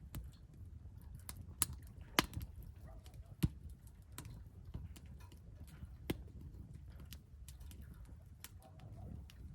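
Wood fire crackling in a Solo Stove fire pit: irregular sharp pops and snaps, a few louder ones about a second and a half, two, three and a half and six seconds in, over a low steady rumble.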